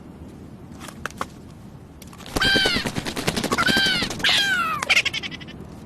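Crow cawing: three harsh, rattling caws about a second apart, each arching up and falling away. A few light clicks come before them.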